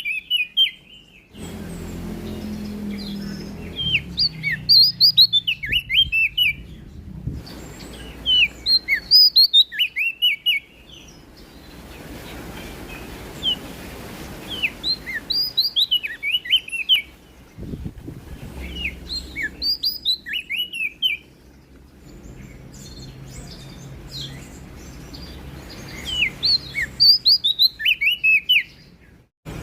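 Prenjak daun (cikrak daun, a small leaf warbler) singing in repeated phrases of rapid, high chirps. Each phrase lasts a second or two and they come every few seconds, over a faint low background rumble.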